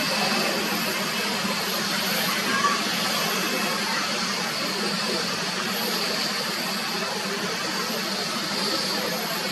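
Jet airliner engines running steadily: an even rushing roar with a faint high turbine whine above it.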